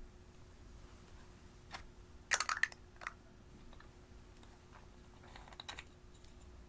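Hands working slime, giving clusters of small crackling clicks: the loudest burst comes a little over two seconds in, and a smaller one about five and a half seconds in.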